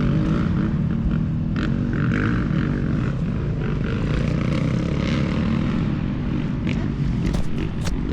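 Motocross dirt bike engines running in a steady drone, with a few sharp clicks near the end.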